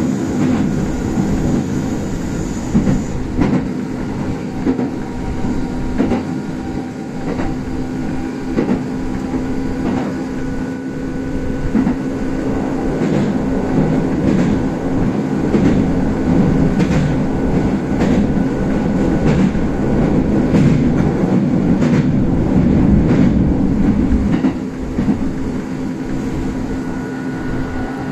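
Kintetsu express electric train running on standard-gauge track, heard aboard the front car: a steady rumble of wheels on rail with a low hum and repeated clicks from the track. It grows louder through the middle and eases back a few seconds before the end.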